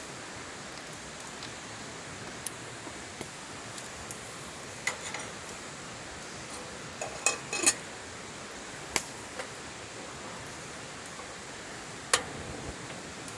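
A handful of sharp clinks and knocks, a couple with a brief metallic ring, over a steady hiss.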